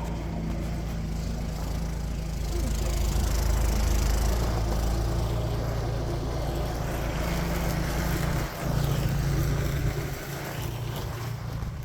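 An engine running steadily at idle, a low drone with a rumble beneath it.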